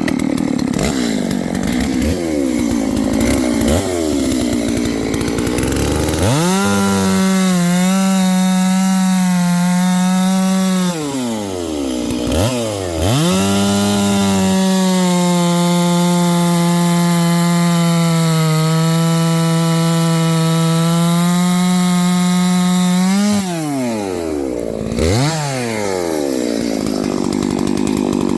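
Stihl 660 two-stroke chainsaw, freshly tuned. It idles with a couple of quick revs, then runs at full throttle twice, about four seconds and then about ten seconds, cutting through water oak with its pitch sagging slightly under load, before dropping back to idle with one more rev.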